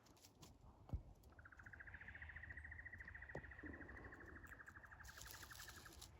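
An animal's rapid, even trill, one long call held at a steady pitch for about four and a half seconds, with a short knock just before it.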